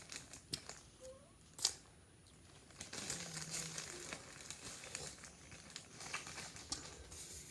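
Chocolate bar wrapper being crinkled and torn open, a scattered crackling with a sharp click about one and a half seconds in.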